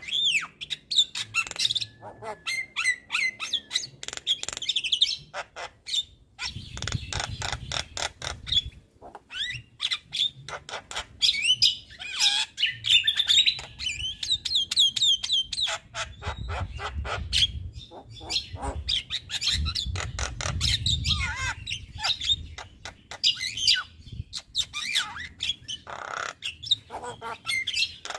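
A male Javan myna singing continuously: fast runs of clicks and rattles mixed with short whistled and squawking notes. A low rumble sits under the song for a few seconds at a time, twice.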